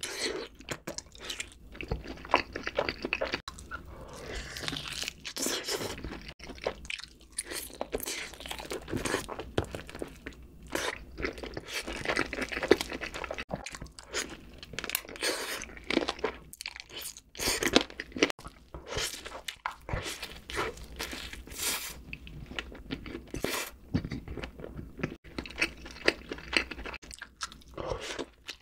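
Close-miked chewing and biting of BBQ-glazed fried chicken, with many irregular crunches. Near the end, a bite into a cheeseburger.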